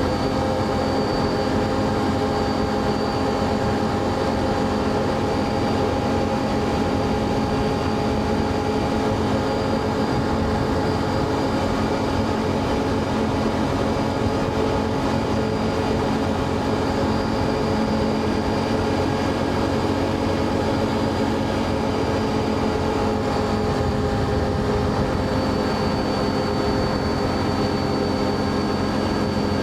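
ATV engine running at a steady cruising speed: a constant drone with a faint high whine above it.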